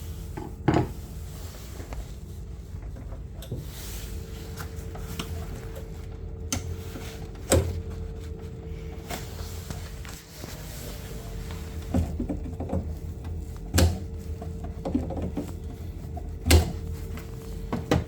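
Scattered knocks and clicks of tools and parts being handled while working inside a combi boiler to take out its flow turbine. A steady low hum runs underneath.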